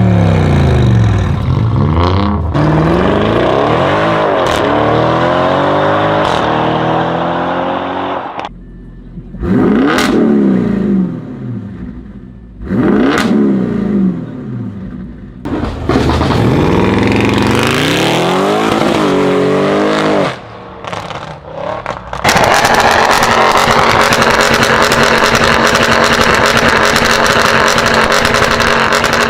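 Audi RS6 engine revving and accelerating across a run of short clips. Rising and falling engine notes cut off and restart, with quick sharp blips of revs in the middle. A long, loud, steady stretch closes it out.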